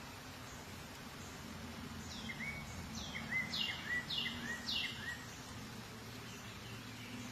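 Honeybees humming steadily at the hive, with a bird singing a short run of about five quick falling notes, between about two and five seconds in.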